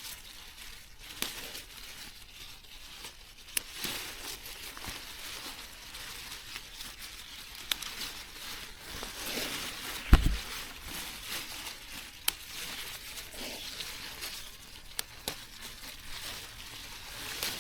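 Rustling, crinkling and tearing of plant material being handled by hand, with scattered small clicks and one loud, low thump about ten seconds in.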